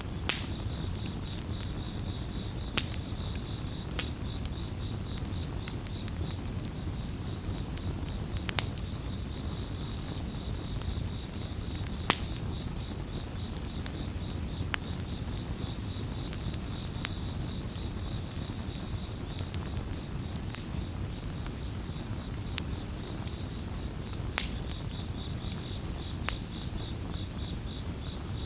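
Campfire burning with a steady low rumble and sharp crackles and pops every few seconds, under a chorus of crickets chirping in a continuous high trill.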